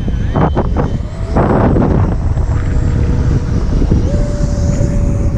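Strong wind buffeting the microphone in a loud, continuous low rumble, with several short gusty bursts in the first two seconds.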